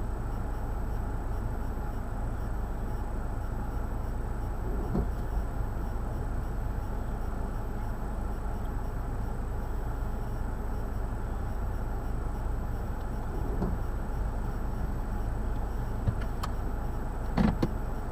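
Steady low rumble of a motor vehicle, with a few short clicks and knocks near the end.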